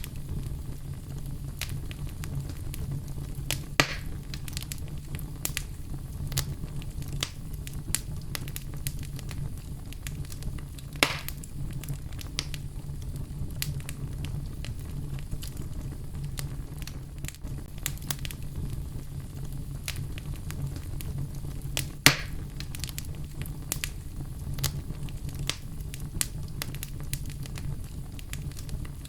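Wood fire crackling in a fireplace: a steady low rumble with a constant scatter of small snaps and three louder pops, the loudest about two-thirds of the way through.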